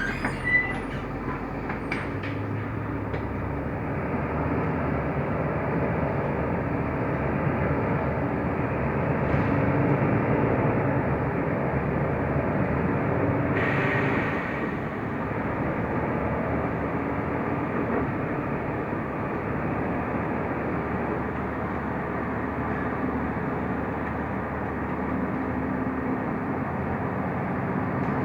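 Cabin sound of a Mercedes-Benz O345 Conecto LF city bus driving: steady engine and road noise, with a brief burst of hiss about fourteen seconds in.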